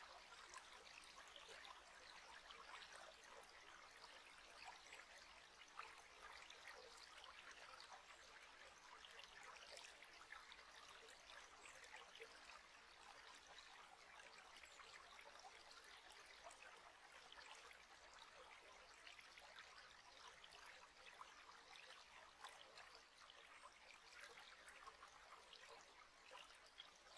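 Faint, steady trickling of flowing water, with small splashes and droplets throughout.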